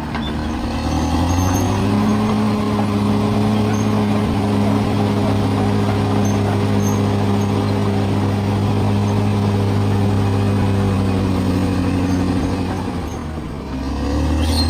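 Bulldozer's diesel engine working under load: a steady drone that rises about a second in and holds, eases off briefly near the end, then picks up again.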